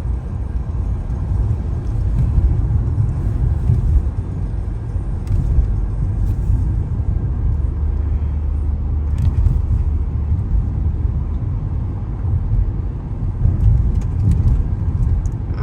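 Low, uneven rumble of a car on the move: road and engine noise heard from inside the vehicle.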